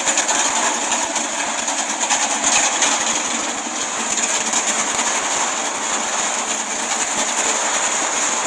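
LS1 V8 engine idling steadily, with a fast, even pulse.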